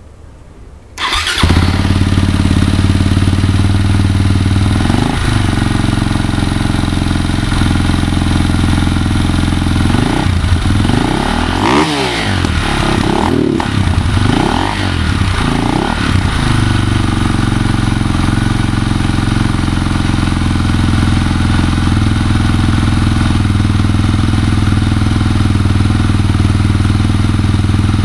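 KTM motorcycle engine starting about a second in and settling into a steady idle. It is revved once around five seconds, then blipped several times in a row between about ten and sixteen seconds, each rev rising and falling, before dropping back to idle.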